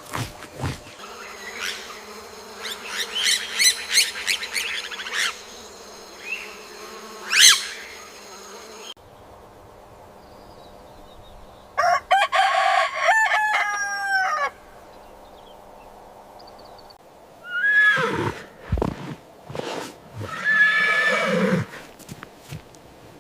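A string of different animal sounds played one after another, separated by short gaps, among them pitched calls of the farm-animal kind.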